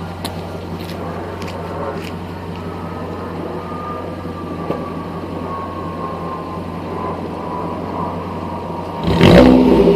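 2013 Ford Focus SE four-cylinder engine idling steadily through an exhaust with the rear muffler cut off and only the mid muffler and resonator left, then revved sharply once near the end, the pitch climbing and dropping back.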